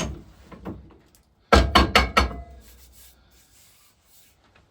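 A sharp knock, then about a second and a half in a quick run of four or five loud knocks and clatters, as of a freshly drilled metal workpiece handled on a workbench.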